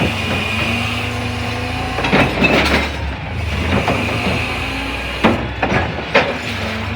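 CNG Freightliner McNeilus rear-loader garbage truck running steadily, with a cluster of sharp clanks and knocks about two seconds in and three more single knocks near the end.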